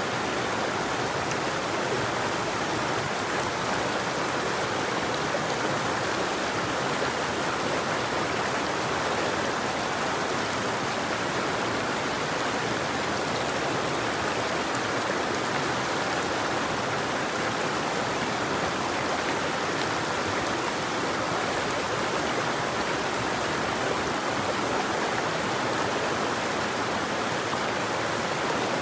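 River water flowing steadily, an even rush of moving water that does not change in level.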